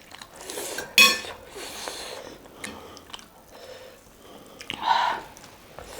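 Mukbang eating sounds: a sharp clink of tableware about a second in, then softer chewing with a louder bite near five seconds.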